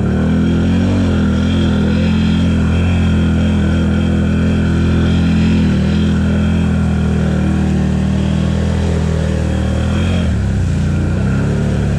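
ATV engine running at a steady engine speed, with a slight change in its note about ten seconds in.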